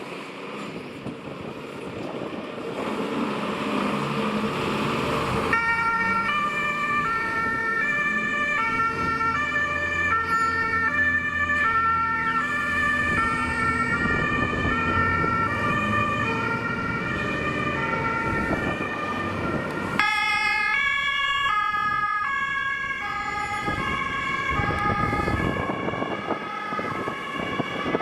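German emergency vehicles pulling out under two-tone sirens. After a few seconds of truck engine noise, the Unimog beach-rescue truck's siren starts, alternating high and low notes. Near the end a different two-tone siren, with a warble on it, takes over from a second emergency vehicle.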